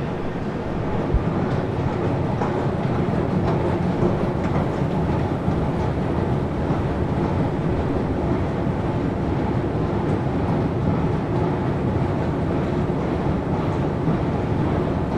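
Moscow Metro train running: a steady, dense rumble of wheels and running gear on the track, with faint scattered clicks. It grows slightly louder about a second in.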